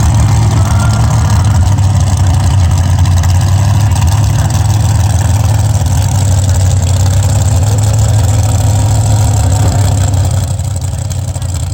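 Pulling truck's engine running loud and steady, its level dropping somewhat about ten and a half seconds in.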